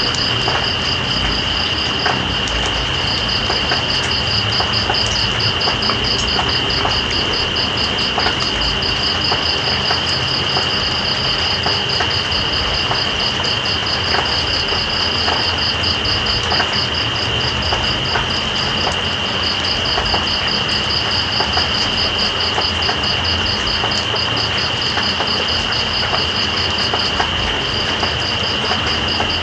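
Steady rain with scattered drop clicks, under night insects calling: one unbroken high trill and, above it, a higher rapidly pulsing chirp that stops briefly a couple of seconds in and again near the end.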